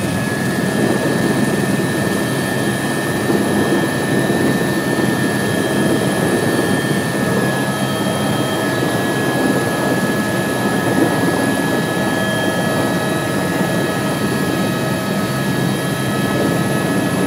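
Tour helicopter running steadily during landing: constant rotor and engine noise with a steady high whine over it.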